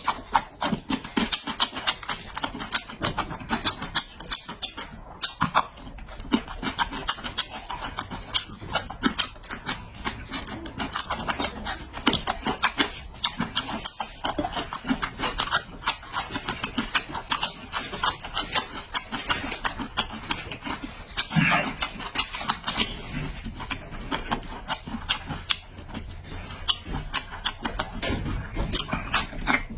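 Close-miked chewing and mouth-smacking of someone eating, a dense run of wet clicks that goes on without a break.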